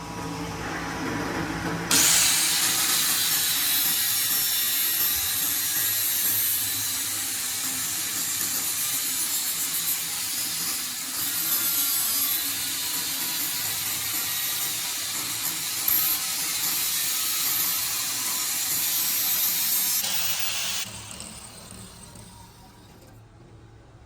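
A metalworking power tool working on steel: a loud, even hissing grind that starts suddenly about two seconds in and stops just before the end.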